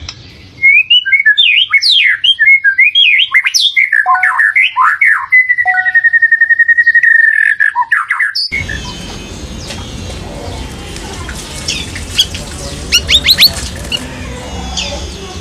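Straw-headed bulbul (cucak rawis) singing its loud, rich warbling song of quick varied notes, with one long trilled note in the middle. About halfway through the sound cuts abruptly to a noisier recording with a low background hum and a short run of quick, sharp high chirps.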